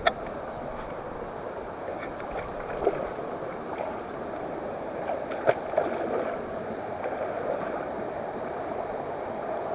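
Steady rush of flowing stream water, with a few short sharp clicks, the loudest about five and a half seconds in.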